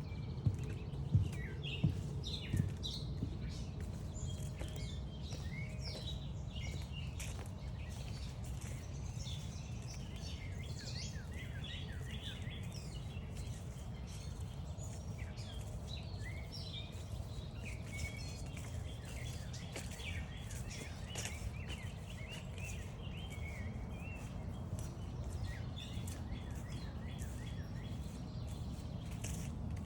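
Several songbirds singing and calling at once in woodland, a dense run of overlapping chirps and trills, over a steady low rumble. A few sharp knocks come in the first three seconds.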